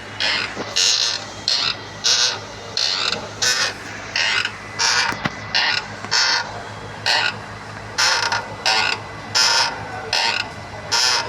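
Renault Kwid clutch creaking with each press of the clutch pedal: short squeaky creaks repeating about one and a half times a second over a steady low hum. The uploader tags it as clutch wear and the release bearing.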